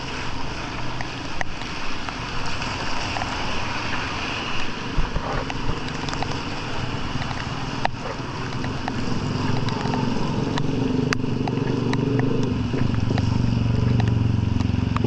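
A motor vehicle's engine running, growing louder from about halfway through as it comes closer, over a steady hiss with scattered light ticks.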